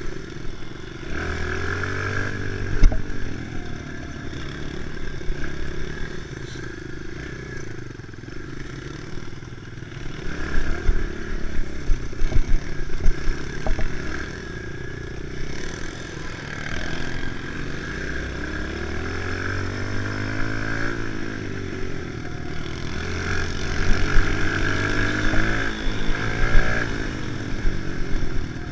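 Kawasaki KLX110's small single-cylinder four-stroke engine being ridden hard, its revs rising and falling again and again through corners and straights. Clatter and a few knocks from the bike's chassis over bumps, the sharpest about three seconds in.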